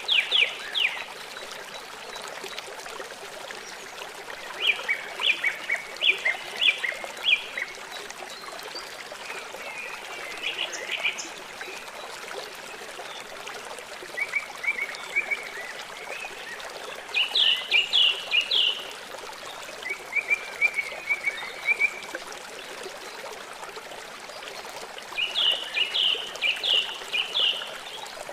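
A small songbird sings in short bursts of rapid, fast-repeated chirping notes every few seconds, over a steady trickling of running water.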